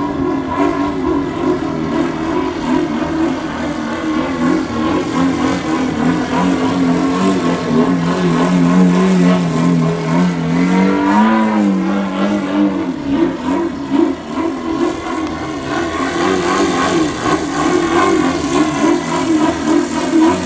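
YS TZ240 boxer-twin four-stroke engine of a radio-controlled aerobatic plane, running in flight. Its pitch wavers up and down, sinks lower for a couple of seconds about halfway through, then climbs again.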